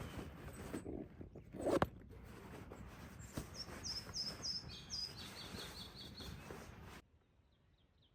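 A songbird sings a phrase of short repeated notes, about five higher ones followed by about five lower ones, over rustling and handling noises with one sharp knock about two seconds in. Near the end the sound cuts off abruptly, leaving faint bird trills.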